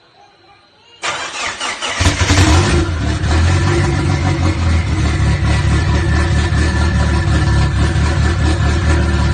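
Toyota 3RZ four-cylinder engine cold-started: the starter cranks it about a second in, it catches a second later with a brief flare, then settles into a steady, evenly pulsing idle.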